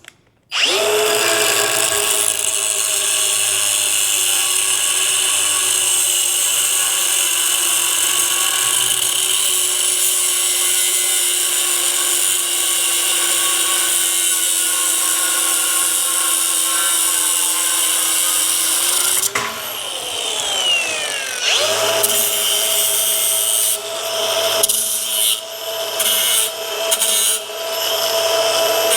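Angle grinder with a cut-off disc cutting through steel rod: a loud, steady whine that sinks slightly under load. Near 19 s it switches off and the whine falls away as the disc spins down. Near 22 s it starts again and is worked on and off against the steel.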